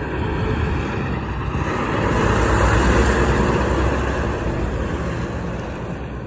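Semi truck passing by: diesel engine rumble and tyre noise build to a peak about halfway through, then fade as it moves away.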